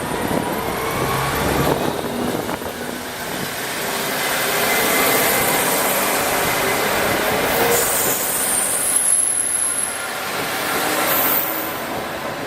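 KiHa 48 diesel railcar train moving on the track as it pulls out, with steady wheel-and-rail noise and brief high wheel squeals about eight to eleven seconds in.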